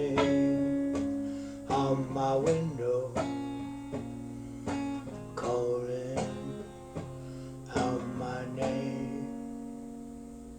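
Acoustic guitar ending a song: a few picked and strummed chords, the last one struck a little under nine seconds in and left ringing as it fades away.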